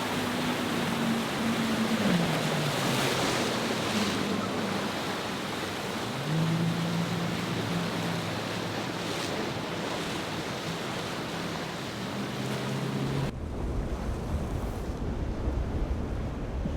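Boat engines running over a steady wash of surf and wind, their drone shifting up and down in pitch with the throttle. About 13 seconds in, the hiss of the water falls away and low wind rumble on the microphone takes over.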